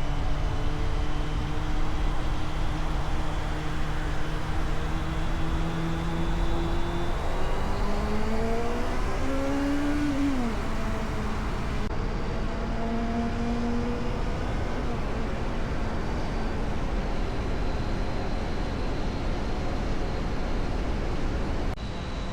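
Motorcycle engine running while riding, over a steady low wind rumble on the camera's microphone. The engine note holds steady, climbs for about three seconds about a third of the way in, then drops sharply and settles again.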